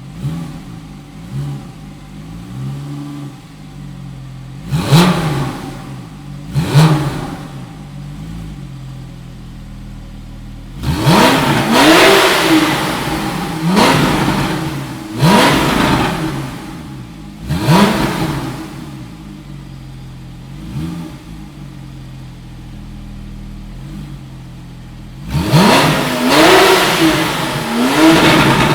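Porsche 911 Carrera 4S flat-six engine idling and being revved repeatedly, each rev a quick rise and fall in pitch back to idle. There are two short sharp blips, then a run of about five revs, a settle back to idle, and more revs near the end.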